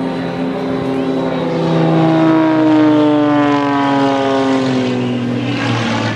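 Propeller-driven aerobatic display plane passing overhead, its engine and propeller note growing louder and then falling steadily in pitch as it goes by.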